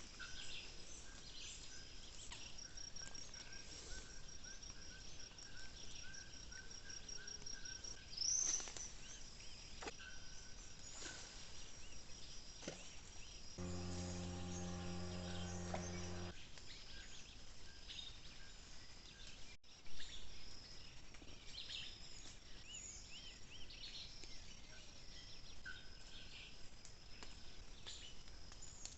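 Insects chirring steadily, with scattered bird calls and one louder rising chirp about eight seconds in. About halfway through, a steady low hum sounds for nearly three seconds and stops abruptly. A sharp click follows a few seconds later.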